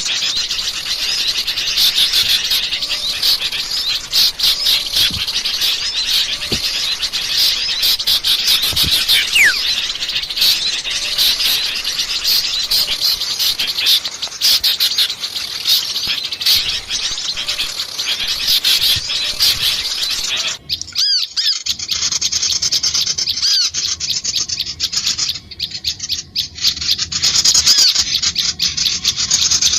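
Dense, noisy chatter of many small songbirds chirping and calling at once, a bird-trapping lure recording meant to draw small birds in. About two-thirds of the way through the sound changes abruptly to a thinner mix of calls.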